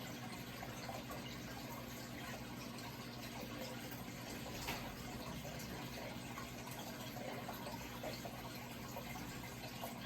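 Steady running, trickling water with small splashes and drips, over a low steady hum.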